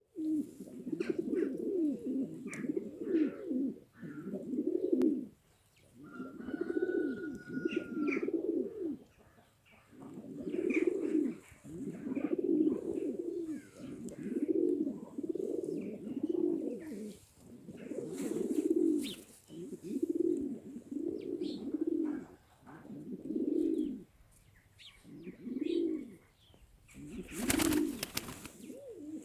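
Van pigeons cooing over and over in low, rolling phrases of about a second each, with short pauses between, and faint higher chirps. A brief noisy rush near the end.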